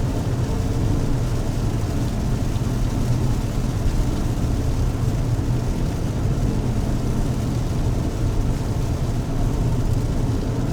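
Steady low rumble of a car driving, engine and tyre noise heard from inside the cabin on a wet road.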